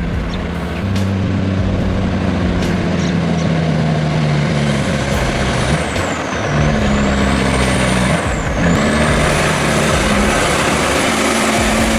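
Heavy diesel truck engine running hard, with a high whine that dips in pitch twice near the middle.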